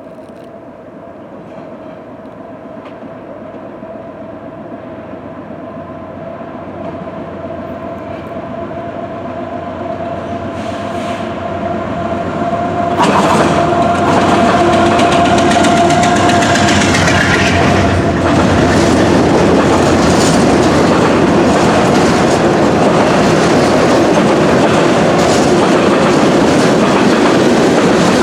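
Norfolk Southern freight train led by a GE AC44C6M diesel-electric locomotive approaching, growing steadily louder with a steady tone. About 13 seconds in the locomotive draws level and the sound jumps sharply, then the freight cars roll past with a rapid clickety-clack of wheels over the rail joints.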